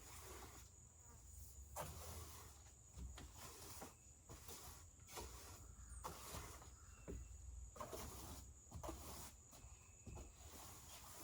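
Near silence: low room hum with a few faint, scattered taps and rustles.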